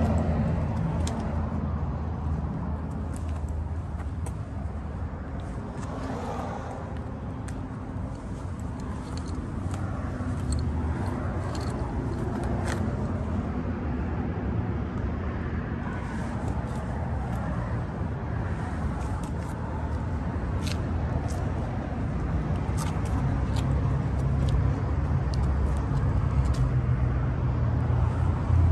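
1977 Cadillac Eldorado's V8 idling steadily, heard from beneath the car. The idle is louder in the last few seconds, near the exhaust and muffler.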